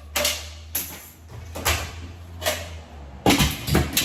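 A series of knocks and clatters from hard objects being handled, about six in all, the loudest near the end, over a low hum that fades out about two-thirds of the way through.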